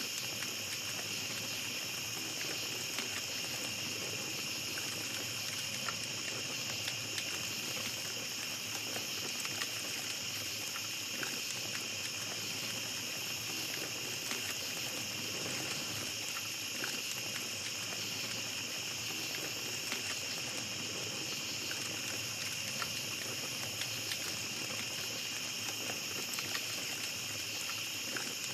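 Small campfire crackling with frequent little pops, over a steady high chorus of night insects.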